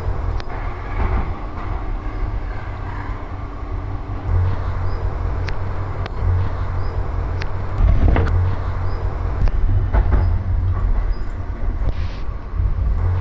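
Train running: a steady low rumble with scattered clicks and knocks, the loudest about eight seconds in.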